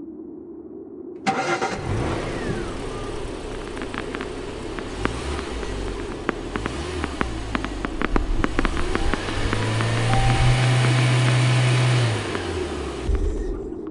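Car engine starting and running, with scattered sharp clicks throughout. A steady, loud low engine note holds for a couple of seconds near the end, then drops away.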